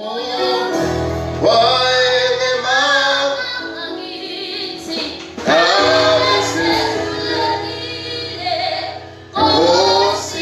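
Gospel worship song sung live, a woman's voice leading over steady low accompaniment notes that come in about a second in.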